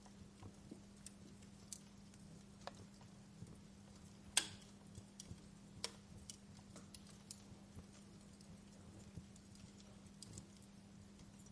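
Wood fire crackling: scattered irregular snaps and pops, with one sharper pop about four seconds in, over a faint steady low hum.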